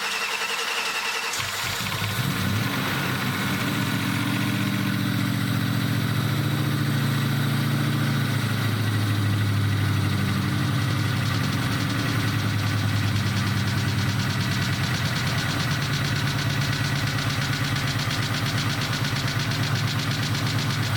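First start of a freshly installed 2003 Mustang Cobra 4.6-litre supercharged V8: the starter cranks, the engine catches after about a second and a half, then runs steadily at idle with no accessories fitted. The engine is making a noise that the owner takes for piston slap.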